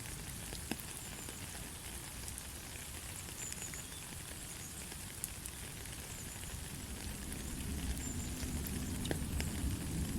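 Steady light rain falling, an even hiss with scattered sharp drop ticks. A low rumble swells in over the last few seconds.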